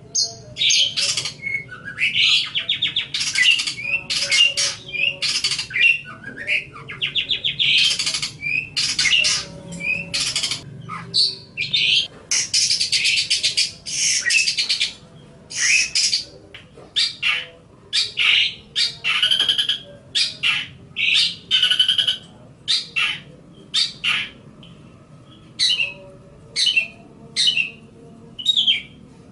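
Long-tailed shrike (cendet) singing: a rapid, near-continuous stream of short buzzy, rasping notes and chattering phrases, broken by brief pauses.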